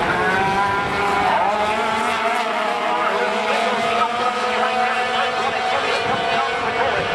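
Racing sport trucks' engines at high revs, several engine notes heard at once, their pitches sliding up and down as the trucks lift and accelerate.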